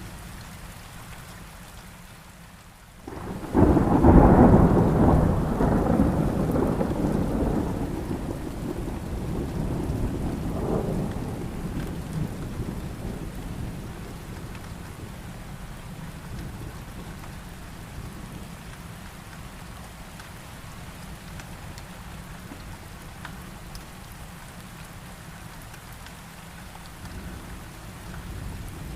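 Steady heavy rainfall. About three seconds in, a loud thunderclap breaks in suddenly and rolls on as rumbling thunder, fading over about ten seconds with a second swell partway through.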